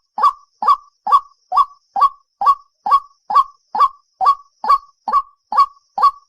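White-breasted waterhen calling, a hard, nasal 'kwak' repeated at a steady pace of about two calls a second, as played on a bird-lure call track.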